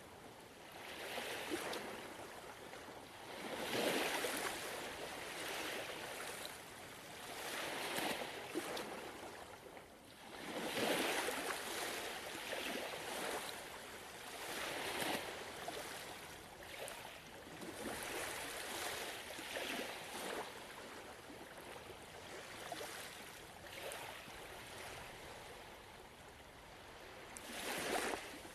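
Gentle ocean waves washing in, the surf swelling and ebbing every few seconds.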